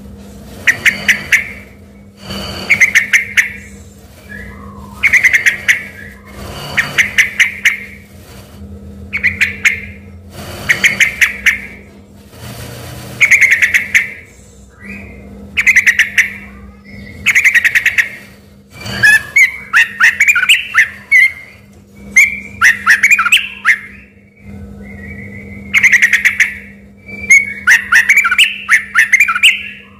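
Yellow-vented bulbul singing a song taken for a white-rumped shama's: short bursts of quick, bright notes repeated about every two seconds, turning into longer warbling phrases in the second half. A steady low hum runs underneath.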